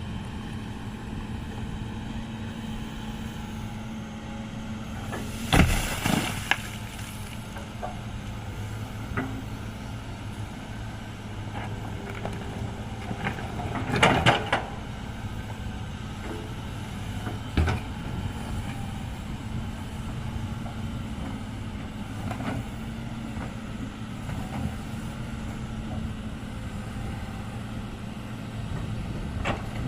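Heavy diesel machinery running steadily at a low hum, with a few loud clanks and knocks: two close together about six seconds in, a cluster about fourteen seconds in, and a single one a few seconds later.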